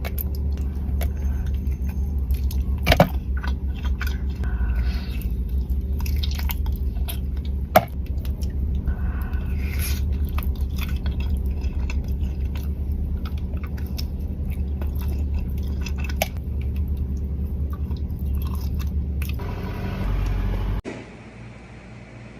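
A person chewing and biting chocolate close to the microphone, with many sharp mouth clicks over a steady low rumble. About 21 seconds in it cuts off abruptly, leaving a quieter steady hum.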